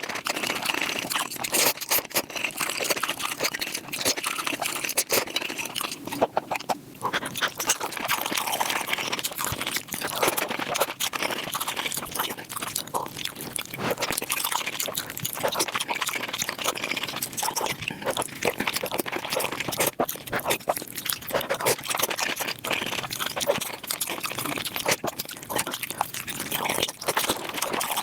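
Close-miked eating sounds sped up five times: a dense, rapid run of chewing and crunching.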